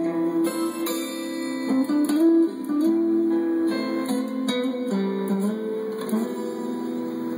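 Instrumental guitar ending of a song: acoustic guitar plucked and strummed, chords changing every second or so. It is played back through an Armaggeddon Panzer III 2.1 computer speaker set.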